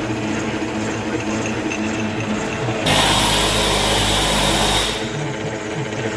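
Portable line boring machine running steadily on a loader bucket's pin bore, a machine drone with steady tones. About three seconds in, a louder, even hiss comes in for about two seconds, then drops away.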